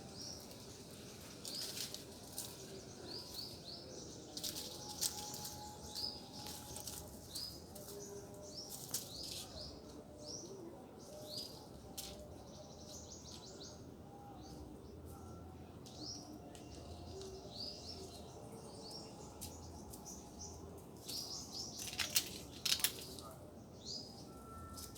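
Small songbirds chirping over and over in short, high, upward-hooked chirps, with scattered sharp clicks and rustles, the loudest a quick cluster near the end.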